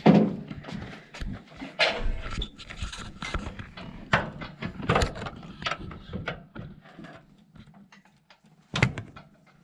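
Irregular knocks and clicks of tools and metal parts being handled during an engine removal, loudest right at the start with a few sharper knocks scattered through and a strong one near the end.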